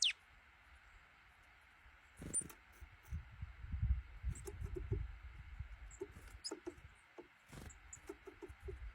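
Small bird moving about with rustling, light knocks and scratching, giving short squeaky chirps. A brief high whistle falls in pitch at the very start.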